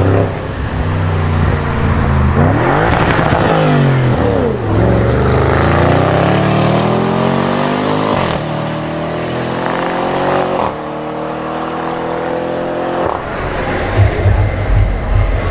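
Audi RS6 engine accelerating hard through the gears: the pitch climbs, drops sharply at an upshift, climbs again and drops at a second upshift, then settles to steadier, lower running, with uneven low pulses from the exhaust near the end.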